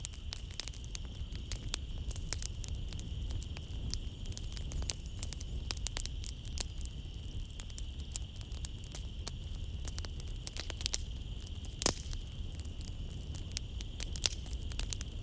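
Wood fire crackling in a fireplace: dense, irregular pops and snaps over a low rumble, with one louder pop about twelve seconds in. A steady high chirring of night insects runs behind it.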